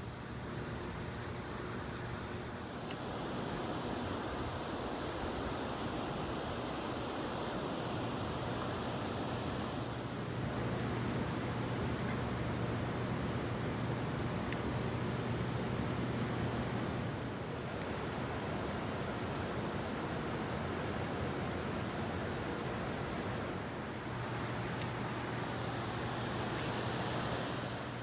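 A steady low motor hum over a constant rushing noise, growing slightly louder about ten seconds in and again near the end.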